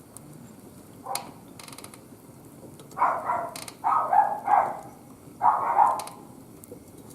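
A dog barking, about five barks in two short runs after a single yelp-like burst, over a low steady background.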